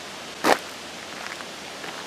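A person's footsteps walking on a forest trail, about one step every two-thirds of a second, with one sharp step much louder than the rest about half a second in.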